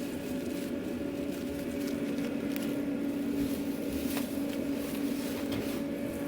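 Steady machine hum in a food truck kitchen, holding two constant tones, with a few faint clicks over it.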